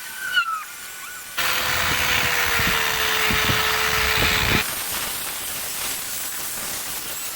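A power tool runs for about three seconds, cutting in and stopping abruptly, with a steady hum that sinks slightly in pitch while it runs. A softer steady hiss follows.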